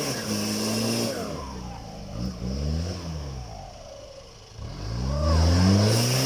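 Isuzu 4JB1 four-cylinder turbodiesel engine: its revs fall away over about three seconds with the throttle released, then climb back up quickly as it is revved again.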